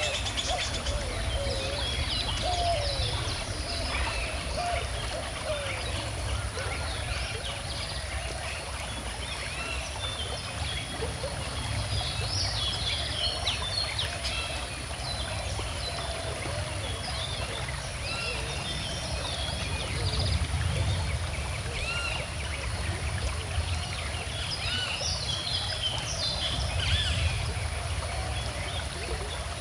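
A calm river flowing steadily, with many birds chirping and singing over it in short repeated calls.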